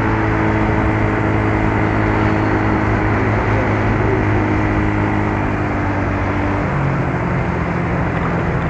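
Yamaha Mio Soul scooter's single-cylinder four-stroke engine running steadily under way, with road and wind noise; the engine note drops about two-thirds of the way through as the throttle eases.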